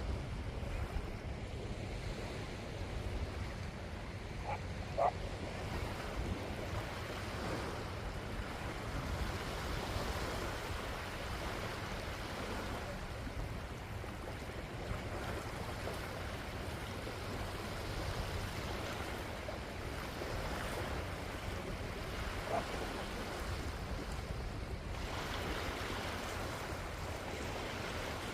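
Surf washing steadily onto a beach, with wind rumbling on the microphone. Twice there is a brief faint pitched call over it, about five seconds in and again near the end.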